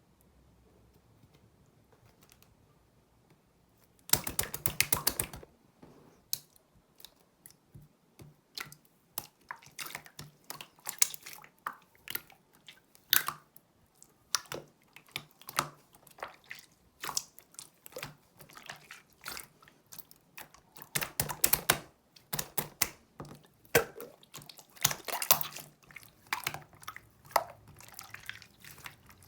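Clear jelly slime being squished and poked by hand, making irregular wet clicks and sticky pops. After a quiet start, a dense crackling burst comes about four seconds in.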